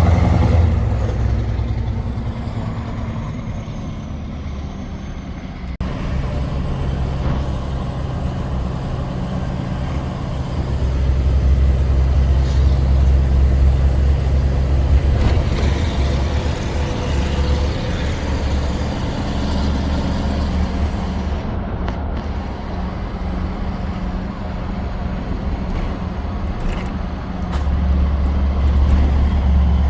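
Scania R560 V8 diesel engine, remapped to 690 hp, pulling steadily under heavy load up a long climb with a fully laden 44-tonne rig. It gets louder about a third of the way in, and again near the end.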